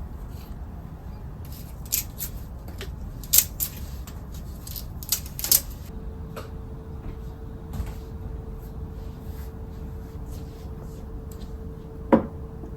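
Household handling sounds: a run of light clicks and knocks, then a steady hum from about halfway, with one sharp knock near the end.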